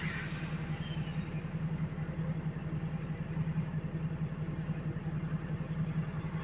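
Garbage truck engine running steadily at idle with a constant low hum.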